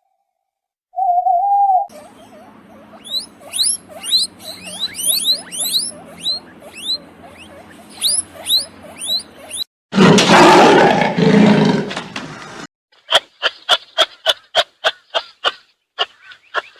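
A run of animal sound effects: a short hooting tone, then about eight seconds of rapid rising chirps. About ten seconds in comes a loud roar lasting about three seconds, like a big cat's, followed by a fast series of short pulsed calls.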